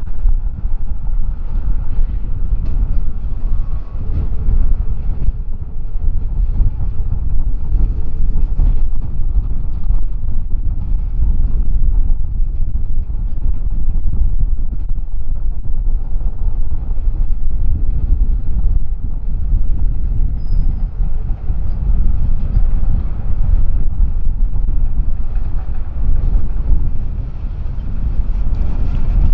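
Freight train running past, with heavy wind noise on the microphone.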